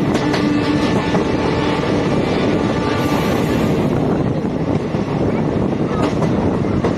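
Passenger train running at speed: a loud, steady rush of wheel and track noise mixed with wind rushing across the microphone.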